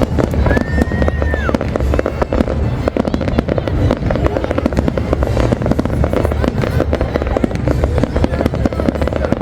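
Aerial fireworks in a non-stop barrage: rapid, overlapping bangs and crackles over a heavy low rumble. A high whistle rises, holds and falls away about half a second in.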